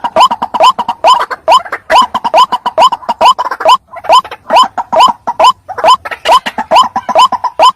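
White-breasted waterhen (ruak-ruak) calling in a rapid, rhythmic series of short, rising 'kruak' notes, about three or four a second. This is a lure-call recording of the kind used to draw in males and females of the species.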